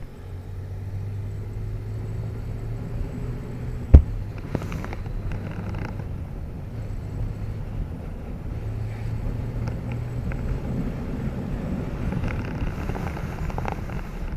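Motorcycle engine running steadily on the move, with a low hum and some wind noise, and one sharp knock about four seconds in.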